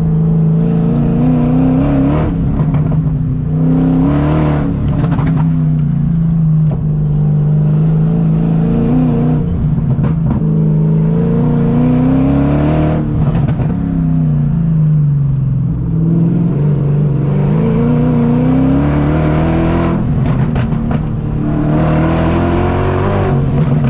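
Straight-piped BMW M60 V8 in an E30, running with half its exhaust missing, very loud as the car is driven, the engine note rising and falling several times as the driver accelerates and lifts off.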